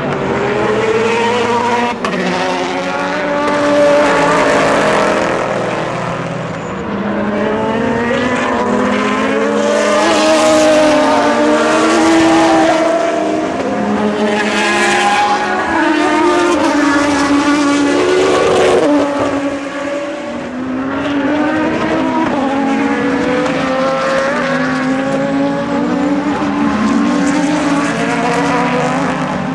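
Several endurance race cars passing one after another at speed, their engines overlapping, each rising and falling in pitch as they accelerate and shift gears.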